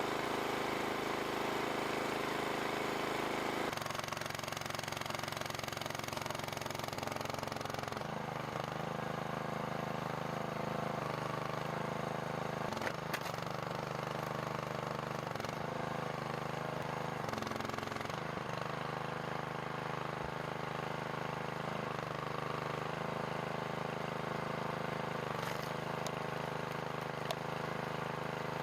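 Single-cylinder 200cc engine of a hydraulic log splitter running steadily, its pitch sagging briefly about ten times as the hydraulic pump takes load and then recovering.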